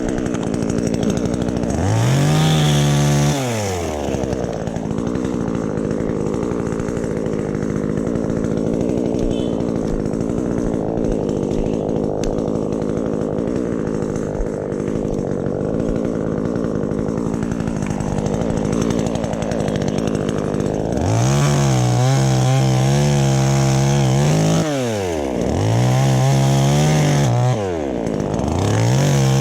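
Chainsaw revving up, then running lower and steadier under load for a long cut into wood. Near the end it revs high again several times, dropping briefly between revs.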